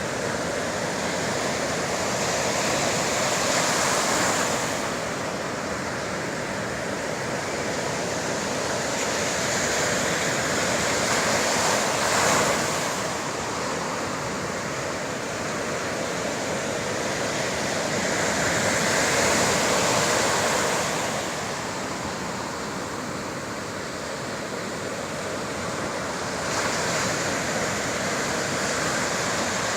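Sea waves breaking and washing on the shore, the surf swelling and falling back every seven or eight seconds.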